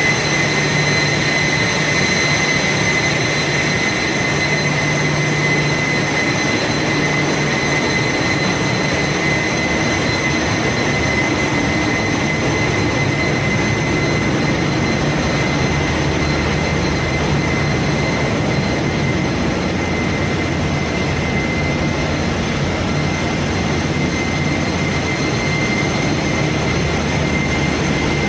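Ship's engine-room machinery running: a loud, steady mechanical noise with a constant high-pitched whine over a low hum.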